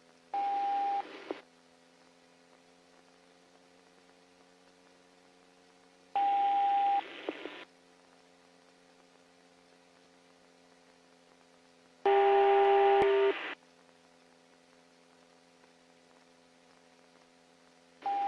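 Police two-way radio keying up three times without a voice: each time a short burst of static hiss with a steady beep tone, the last with several tones at once. A faint steady hum in between.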